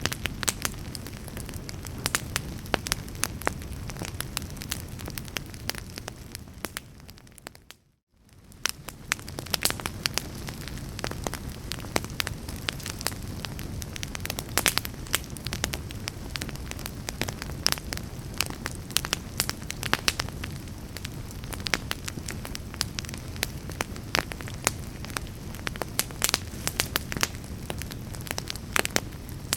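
Fireplace fire crackling and popping over a steady low rumble of flame, with frequent sharp snaps. About eight seconds in it fades briefly to near silence and then fades back in.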